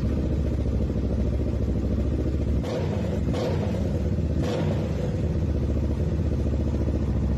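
A motorcycle engine running loudly and steadily, with brief clattering noises about three seconds in and again near four and a half seconds.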